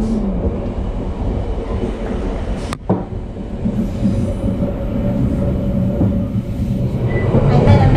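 Coastal Pacific passenger train running along the track, heard from inside the carriage: a steady low rumble, with a steady hum joining about four seconds in. The sound breaks off for an instant about three seconds in.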